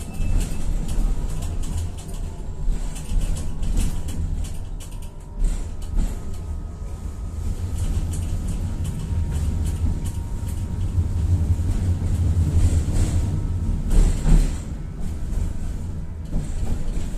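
Tatra-Yug K1M tram running, heard from on board: a steady low rumble from the running gear, with rattles and knocks throughout and a louder knock about 14 seconds in.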